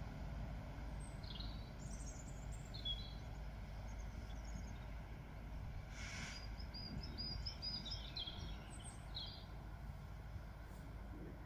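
Small birds chirping in short scattered calls, busiest in the middle of the stretch, over a steady low outdoor rumble, with a brief hiss about six seconds in.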